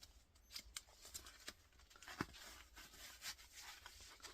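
Near silence with faint handling noise: soft rustles and small clicks, one slightly sharper click about two seconds in.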